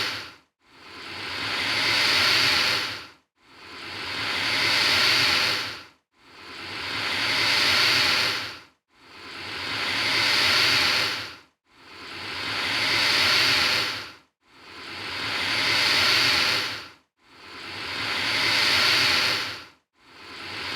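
Alligator hissing: the same hiss repeated about every three seconds, each one swelling up and then cutting off sharply.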